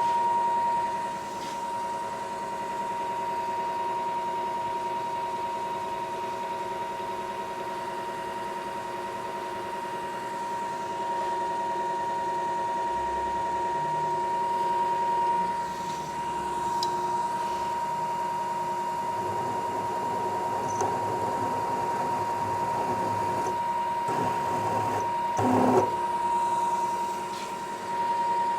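Manual milling machine running with a steady whine, a 1/2 inch spot drill in the spindle while a hole pattern is spotted. A stretch of rougher, scratchier noise comes through near the end, with a louder moment about three seconds before it ends.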